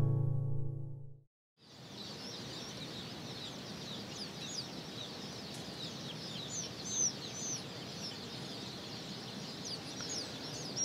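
Many ornamental pheasant chicks peeping together: lots of short, high chirps overlapping over a steady hiss. A held music chord fades out in the first second, before the peeping starts.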